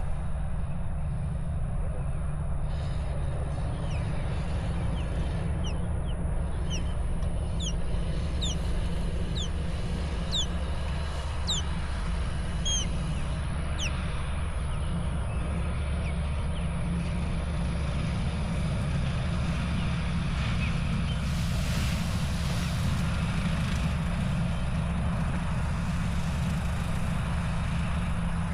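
A steady low engine rumble, with a string of short, high bird chirps through the first half and a brief rush of hiss about three quarters of the way through.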